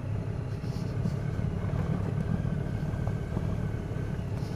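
Honda Crosstourer's V4 engine running steadily as the motorcycle rides along a dirt track, a low even rumble.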